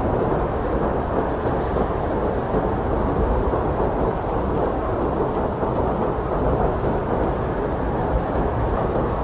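Strong blizzard wind blowing steadily: a dense, even rushing noise, heavy in the low and middle range with little hiss above, without gusts or breaks.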